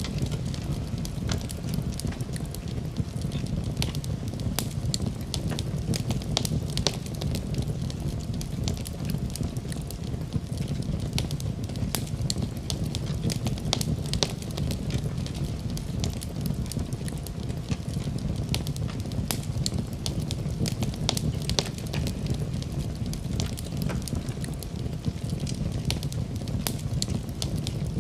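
Fire crackling in a fireplace: many sharp pops and snaps over a steady low rumble of flame.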